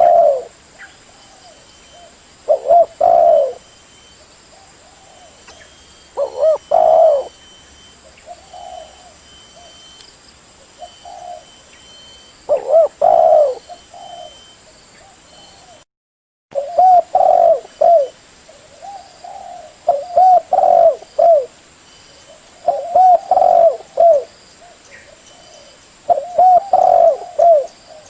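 Spotted dove cooing: phrases of low coos repeating every few seconds, coming closer together in the second half. Midway the sound cuts out completely for about half a second.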